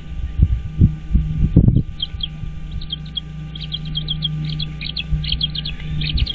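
A few dull thumps in the first two seconds as an adult bald eagle steps off its eaglets on the stick nest. Then quick runs of short, high bird chirps over a steady low hum.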